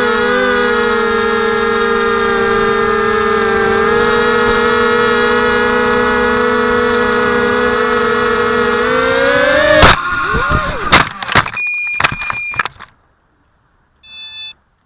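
Dart 250 quadcopter's electric motors and propellers whining at a steady pitch, rising slightly just before the quad hits the boat tent about ten seconds in. A loud impact is followed by several clattering strikes as the propellers hit and the quad tumbles, in the crash that broke an arm, then the motors stop and a short beep sounds near the end.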